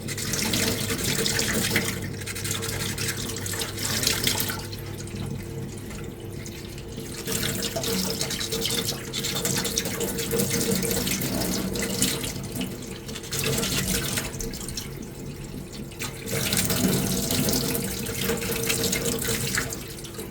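Hand sanding a small puttied armour piece: a scratchy hiss of sandpaper in runs of quick strokes, broken by a few short pauses, over a faint steady hum.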